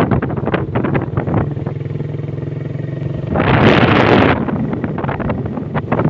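Motorcycle engine running at a steady pace while riding, with wind buffeting the microphone. Just past the middle, a loud rushing noise lasts about a second.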